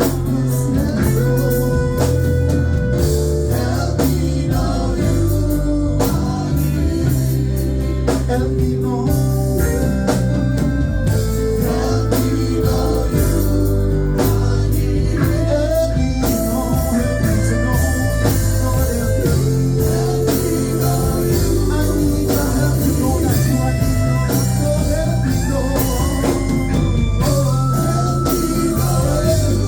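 Gospel worship music played live by a band with drums, bass and guitar, with singing over it.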